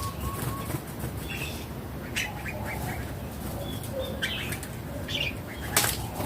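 Red-whiskered bulbul calling in short chirps and brief phrases, with a sharp click near the end.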